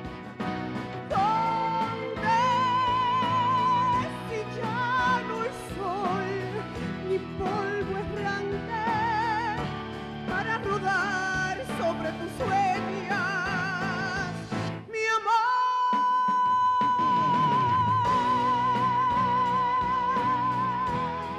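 A woman singing a wordless, ornamented vocal passage with heavy vibrato over instrumental accompaniment. About fifteen seconds in, after a short break, she holds one long high note for several seconds.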